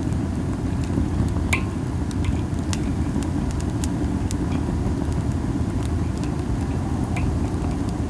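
Masaki (Japanese spindle tree) wood burning in a campfire, with sparse, sharp crackles and pops about once a second over a steady low rumble of wind on the microphone.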